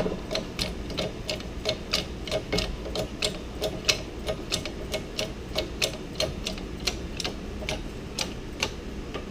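Ratchet wrench clicking steadily, about four clicks a second, as it is worked to tighten down a hold-down for the differential pinion under the press.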